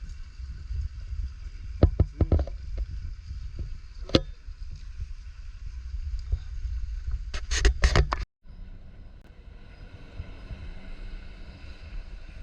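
Wind buffeting the microphone as a low steady rumble, with a few sharp handling knocks about two seconds in, at four seconds and a louder cluster near the middle. The sound cuts out for an instant just after the knocks.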